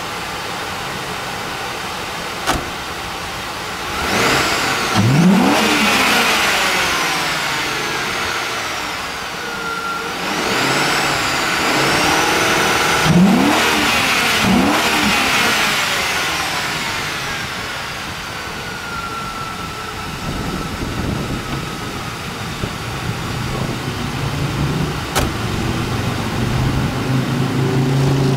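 Ford Crown Victoria Police Interceptor's 4.6-litre V8 revved several times, its pitch rising and falling with each blip of the throttle, then settling to a steady idle from about two-thirds of the way through.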